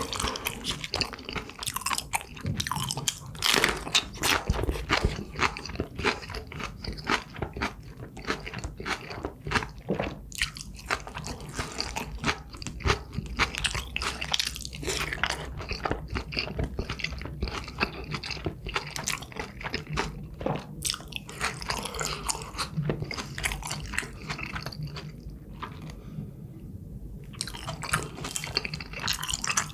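Close-miked mukbang eating: crisp crunching and chewing of food in the mouth, a dense run of sharp irregular clicks, with a brief lull near the end.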